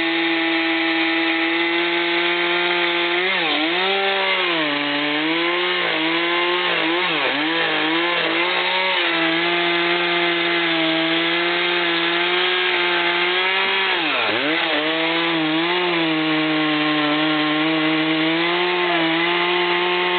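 Chainsaw running at full throttle while cutting into a large tree trunk, a loud, steady high engine note. The pitch dips briefly as the chain bogs down in the wood: several times between about three and eight seconds in, and once sharply about fourteen seconds in.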